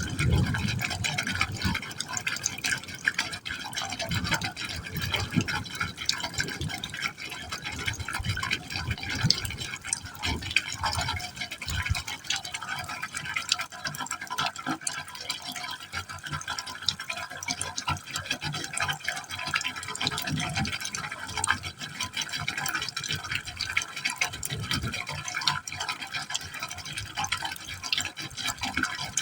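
A stream of water falling into a pipe hole: steady splashing and gurgling with irregular low plops as the water drops down the pipe.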